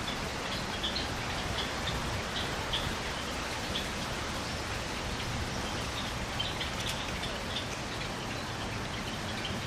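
Small birds giving short, scattered chirps over a steady outdoor hiss.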